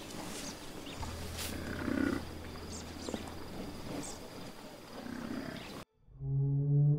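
Herd of wildebeest calling, with low calls coming every couple of seconds over the noise of the herd. About six seconds in the sound cuts off, and a steady low humming tone begins.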